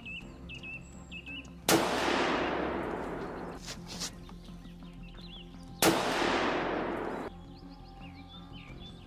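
Two gunshots about four seconds apart, each sharp crack followed by a long rolling echo that fades over a second or more. Birds chirp and background music plays underneath.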